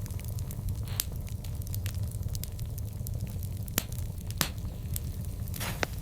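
Wood fire burning with a steady low rumble and irregular crackles, a few louder pops standing out.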